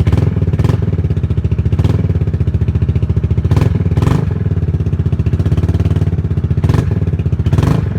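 Yamaha Majesty scooter's single-cylinder engine running steadily through a cheap aftermarket exhaust that replaces the stock muffler, with a few short sharp bursts of noise over the engine note.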